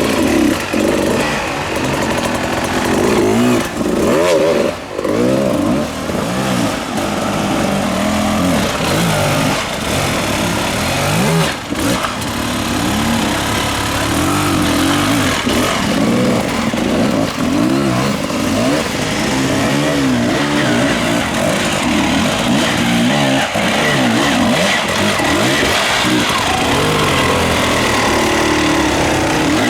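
Off-road enduro motorcycle engines revving up and down over and over, the pitch rising and falling with the throttle.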